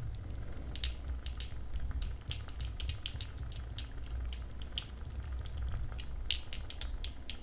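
Wooden-wick candle crackling: many small, irregular clicks and pops.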